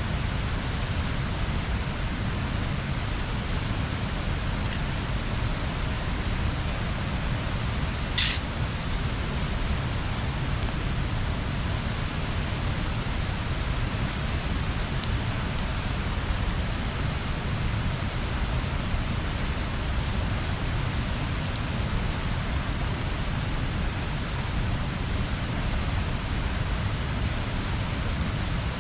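Wood bonfire burning: a steady rushing hiss with a few sharp pops of burning wood, the loudest one about eight seconds in.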